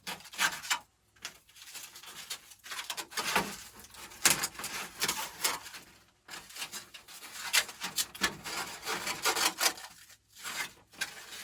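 Knife cutting through a polystyrene foam rafter vent along its perforations: irregular scraping strokes, each a fraction of a second, with a short pause near the end.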